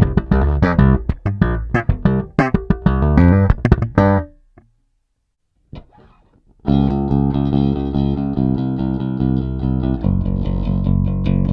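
Five-string Music Man Stingray HH electric bass, recorded direct with a flat EQ. It plays a slapped and popped line with sharp percussive attacks, stops for about two seconds, then starts a steady run of fast, even notes played with a pick, which moves to lower notes near the end.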